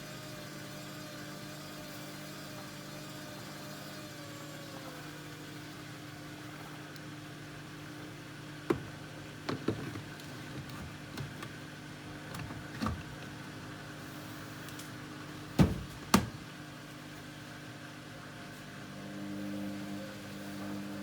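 Hoover Dynamic Next washing machine running: a steady motor hum with a wavering higher tone that drops away about four seconds in. This is followed by a scattering of sharp knocks and clicks, the loudest two close together about three-quarters of the way through.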